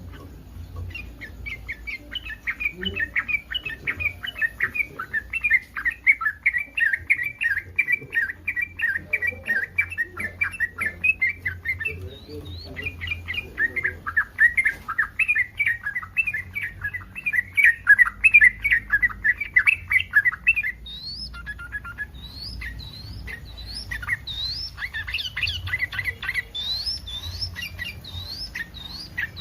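Yellow-vented bulbul (trucukan) song in breeding condition: long fast runs of bubbling, chattering notes. From about two-thirds of the way through, these give way to short separate up-slurred whistles, about one a second.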